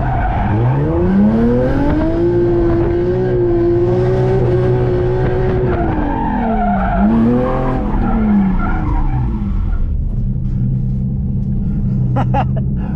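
Drift car's engine revving up and held high through a drift with the tyres skidding, its note dropping and climbing again about seven seconds in, then settling to a lower steady note near the end.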